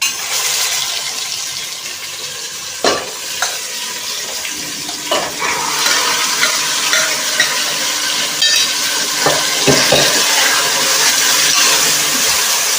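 Marinated chicken sizzling in hot oil. The hiss starts suddenly as the marinade goes into the pan and keeps going loud and steady, with a few sharp knocks of a spoon against the pan as it is stirred.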